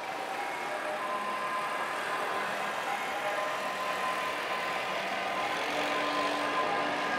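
Electric commuter train moving along an elevated track, a steady rumble with a faint hum, mixed with city street traffic. It grows slowly louder, and a low steady tone joins about six seconds in.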